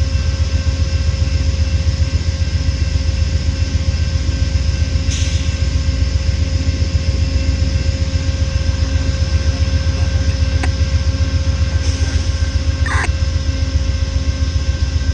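Amtrak P42 diesel locomotive idling at the platform: a steady low engine throb with a constant hum of several steady tones over it. A couple of brief faint clicks and a short squeak come through near the end.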